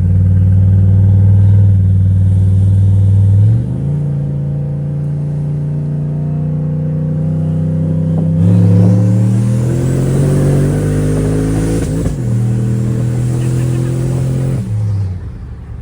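Turbocharged Chevy Silverado truck engine under a hard, full-throttle pull. Its pitch climbs through several gear shifts, and from about halfway through the big turbo's rising whistle and rush of boost sit over the engine; the driver lets off just before the end.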